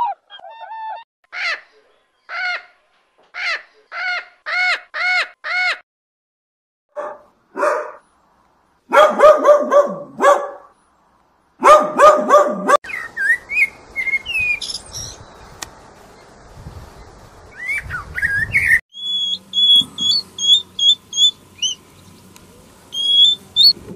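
A string of repeated bird calls, then a small dog yapping in two quick bursts, then running stream water with a few bird chirps, and near the end a series of short high chirps.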